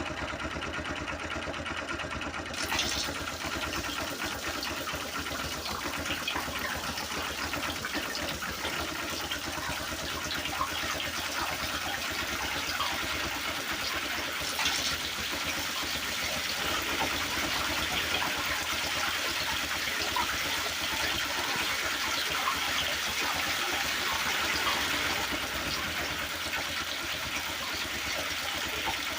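Small motor of a DIY toy tractor running steadily with a low hum, alongside water trickling and splashing.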